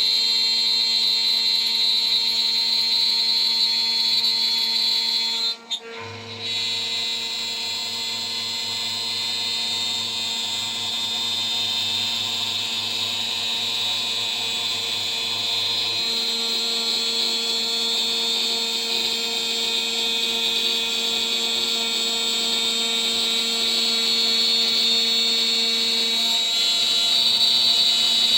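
A DIY CNC router's spindle runs at high speed, driving a 3 mm end mill through a milling pass, with a steady high whine. The sound drops out briefly about six seconds in, and a lower hum joins for about ten seconds after that.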